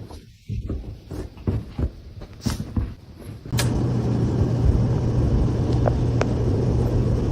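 Scattered knocks and clicks. About three and a half seconds in, a steady low motor hum starts suddenly and runs on, with a few sharp clicks over it.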